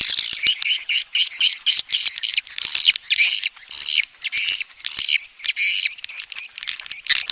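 Swiftlets twittering: a dense run of rapid, high-pitched chirping calls with short breaks, the breeding call ('birahi beranak') played as a lure sound for swiftlet houses.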